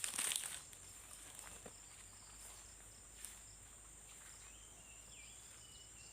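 Insects, crickets or cicadas, droning steadily at a high pitch, with a brief burst of rustling at the start and a short stepped whistling call near the end.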